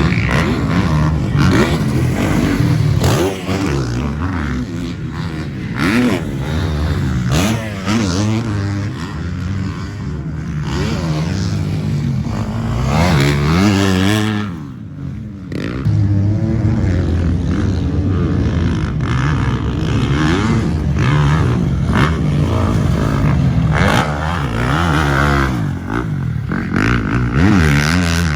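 KTM 250 motocross bike's engine revving hard and repeatedly rising and falling in pitch as the rider works the throttle and gears around the track. It backs off briefly about halfway through, then pulls hard again.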